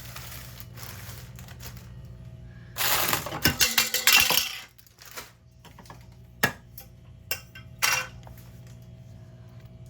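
Items in a mini fridge's door being handled: a dense clattering rattle of containers knocking together for about two seconds, followed by three single sharp knocks.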